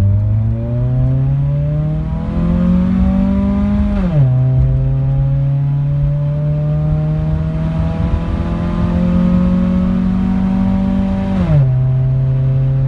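Honda CR-V's four-cylinder engine accelerating through its makeshift repaired exhaust. The pitch climbs steadily, drops sharply at a gear change about four seconds in, climbs again, and drops at a second gear change near the end.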